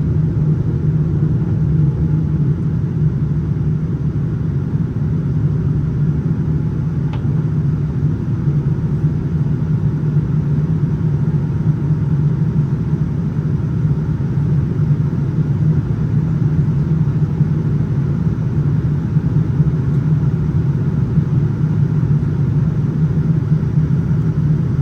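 Steady cabin noise of a Boeing 787-9 airliner in flight, heard from a passenger seat: an even, deep rumble of engines and airflow. A faint brief tick about seven seconds in.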